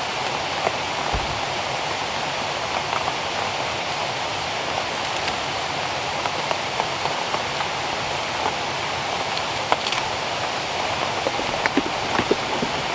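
Steady rain falling in rainforest: a continuous hiss with scattered louder individual drops.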